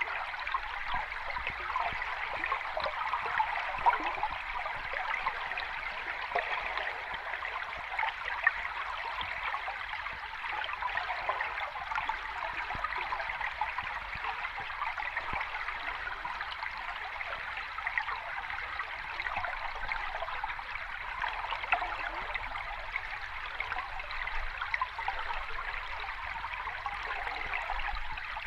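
Steady rushing and trickling of water, full of small splashes and crackles, with no rise and fall of breaking waves.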